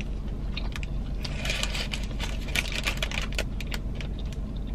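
Close-up chewing of a soft pretzel dog: quick, irregular wet mouth clicks and smacks, with the paper wrapper rustling for a while in the middle.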